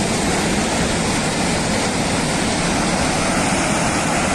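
Rushing floodwater: a loud, steady roar of torrential water.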